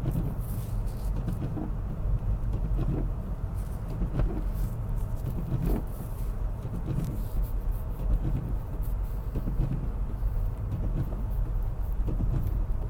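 BMW X3 driving on a snowy road: a steady low rumble of tyres and engine, with scattered light knocks.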